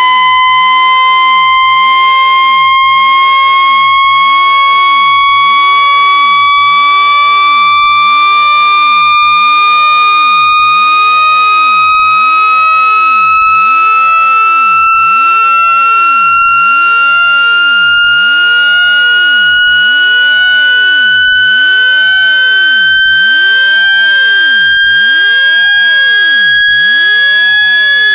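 Synthesized speaker-cleaning tone for ejecting water and dust from a phone speaker: a loud, buzzy electronic tone held without a break, gliding slowly and steadily upward in pitch.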